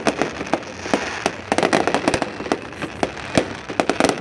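Fireworks display: a dense, continuous run of bangs and crackling pops, several a second.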